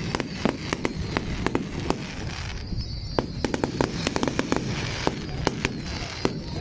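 Fireworks display: a rapid, irregular run of sharp crackles and bangs, several a second, over a continuous low rumble of bursting shells.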